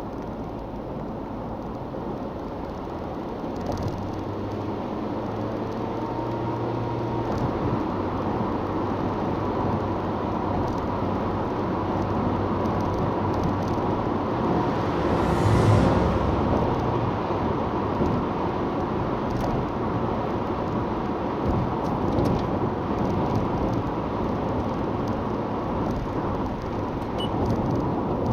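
Honda Freed's 1.5-litre petrol engine and tyre noise while cruising on a motorway, a steady low hum under road rush that grows slowly louder. About halfway through, a louder rushing swell rises and fades over a second or two.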